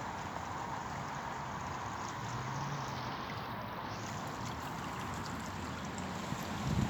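Steady rushing of running water from a stream swollen by floodwater. A brief low rumble comes in near the end.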